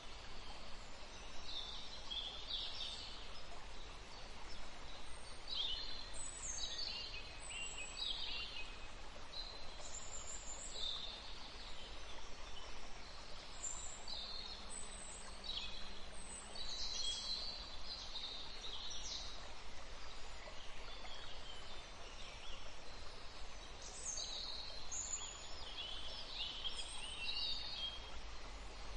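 Birds chirping: many short, high chirps that fall in pitch, coming in quick irregular clusters over a steady low background hiss.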